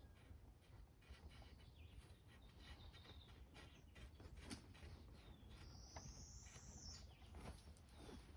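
Near silence with faint songbird chirps in the background, including one longer high whistle about six seconds in, and a few light scattered clicks.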